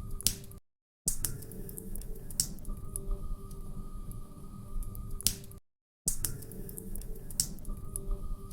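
Wood fire crackling, with sharp pops and snaps over a low steady rumble. The sound cuts out completely for about half a second, twice, five seconds apart.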